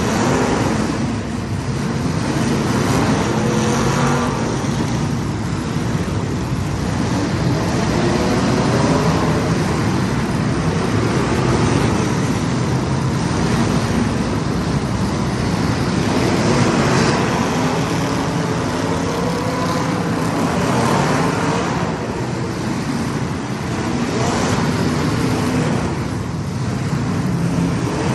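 Engines of several small race cars running flat out around a track, their pitch rising and falling again and again as the cars accelerate and pass.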